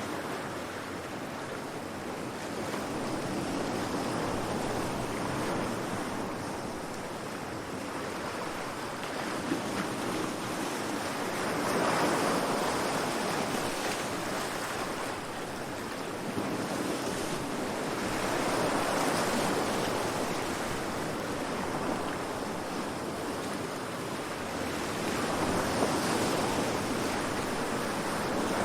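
Calm sea waves washing in and drawing back, the surf swelling and ebbing about every seven seconds.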